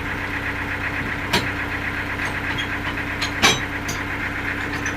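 An engine running steadily at a low, even speed, with two sharp knocks, one about a second and a half in and one near three and a half seconds.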